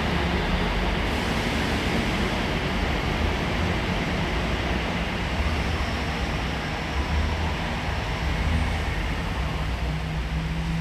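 A steady low rumble with a hiss over it, like a vehicle running, holding even throughout.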